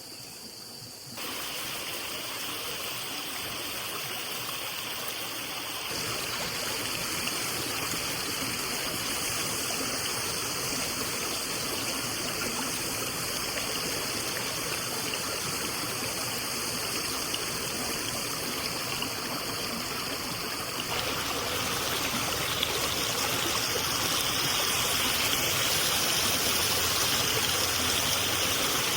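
Steady rush of running water, getting a little louder in steps a few times.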